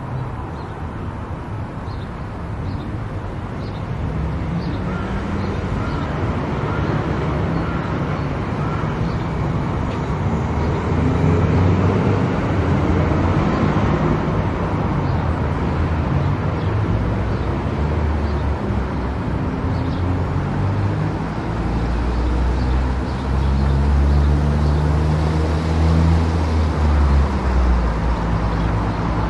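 Car travelling on an expressway: steady road and tyre noise with engine drone, swelling louder about ten seconds in and with a deeper rumble near the end.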